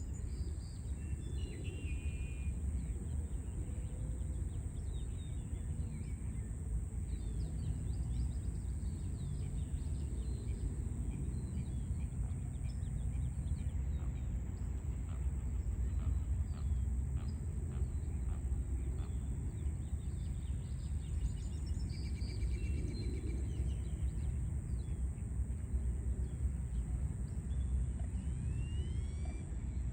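Steady low rumble of city background noise, with birds chirping and trilling faintly over it and a thin, steady high tone.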